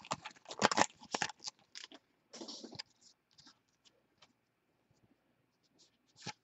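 2015 Allen & Ginter baseball cards being handled, slid and shuffled through by hand: a quick run of clicks and scrapes, a short rustle about two and a half seconds in, then a quiet stretch and a few more clicks near the end.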